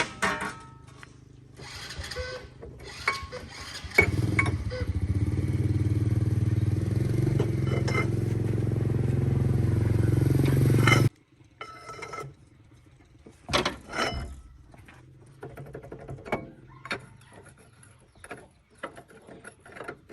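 A tractor engine starts suddenly about four seconds in, runs steadily and a little louder for about seven seconds, then stops abruptly. Metal tools clink and knock before and after it runs.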